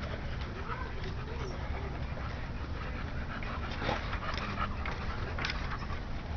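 Dog whining and panting, with a wavering whine that rises and falls about a second in, over a steady low hum.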